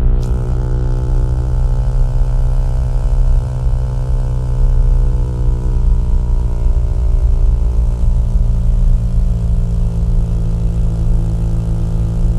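Small-displacement single-cylinder motorcycle engine and exhaust running steadily at cruising speed, its note shifting slightly about two-thirds of the way through.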